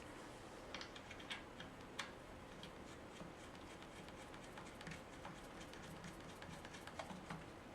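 Faint, irregular small metallic clicks and taps of the chainsaw's bar nuts being fitted onto the bar studs by hand.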